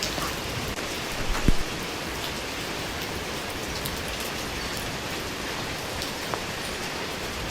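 Steady rain falling, an even hiss with scattered drop ticks. A short low thump about a second and a half in.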